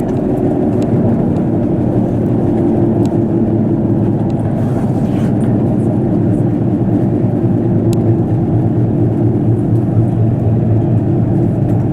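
KiHa 85 diesel railcar running at speed, heard from inside the carriage: a steady, loud, low rumble of engine and wheels on the rails.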